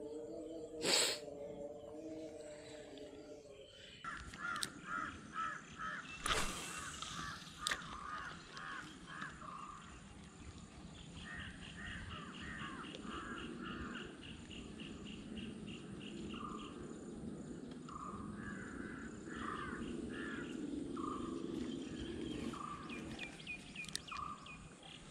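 Birds calling outdoors: series of short, repeated calls, with a faster, higher-pitched series in the middle. A sharp click sounds about a second in.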